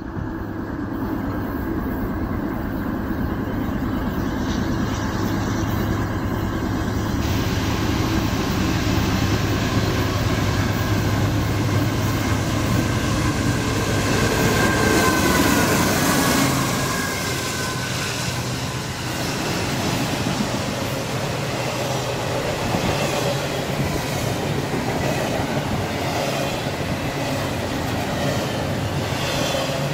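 Norfolk Southern diesel locomotives at the head of a long, fast intermodal freight train approaching and passing. Their engine drone builds to its loudest about halfway through. It then gives way to the steady rumble and clatter of double-stack container cars rolling by on the rails.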